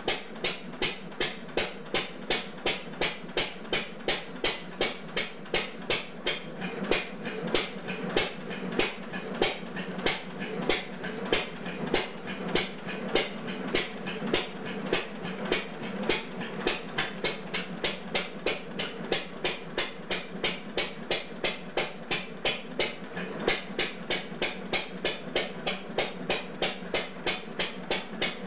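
Old Bradford stationary gas engine running with a steady rhythmic clatter of a few beats a second, some beats louder than others. The owner finds its governor a little twitchy.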